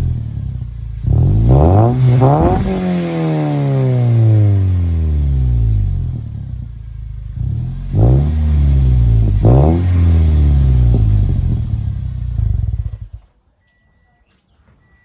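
Toyota Vios (second generation) four-cylinder engine revved through a Magnaflow aftermarket exhaust. Two pairs of quick rev blips come a few seconds apart, and after each one the pitch falls slowly back down. The sound cuts off suddenly about thirteen seconds in.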